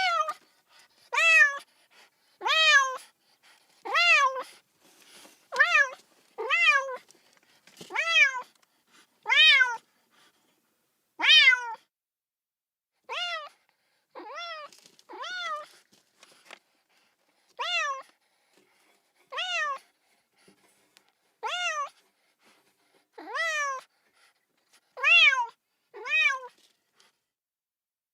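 A kitten meowing over and over, about one cry every second and a half, each a short high call that rises and then falls in pitch. These are a baby cat's distressed crying calls, taken as calling for its mother.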